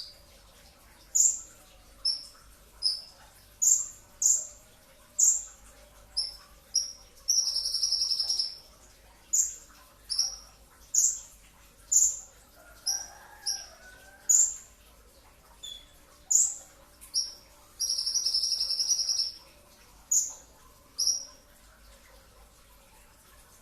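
A sunbird of the kind sold as 'kolibri ninja' (brown-breasted konin) is singing a series of sharp, high chirps, roughly one a second. It breaks twice into a long, dense, rapid trill, once about seven seconds in and again near eighteen seconds: the tight 'tembakan' bursts prized in tutor recordings.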